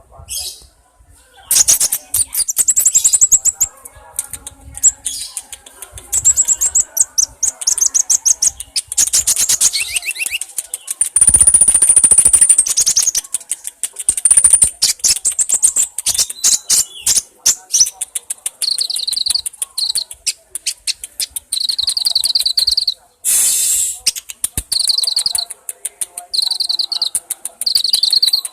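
Sunbird (kolibri ninja) singing in fast, very high-pitched trilled bursts, many of them in quick succession. In the second half the trills come as short, evenly repeated phrases about once a second, with sharp clicks between.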